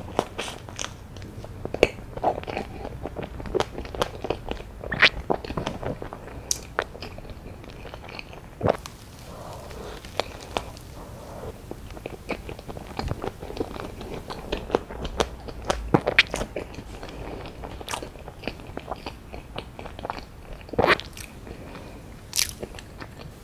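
Close-miked eating: bites into a cream-filled dessert, then steady chewing with irregular crisp crunches and crackles.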